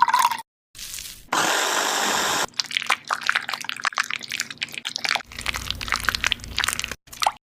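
Kitchen cooking sounds in quick cuts: about a second of steady rushing hiss like pouring or running water, then a few seconds of irregular crackling and clicking.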